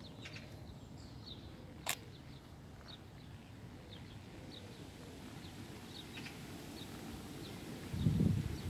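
A small bird chirping repeatedly, short high chirps every half second or so, over a faint outdoor background. A single sharp click about two seconds in, and wind buffeting the microphone near the end.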